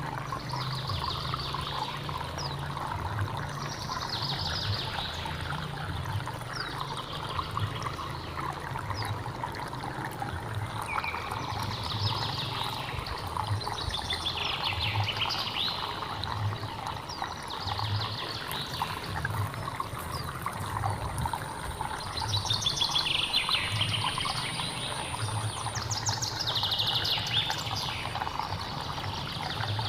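Water flowing and trickling steadily, with birds calling over it in repeated short descending phrases every few seconds, and a thin high steady whine for part of the time.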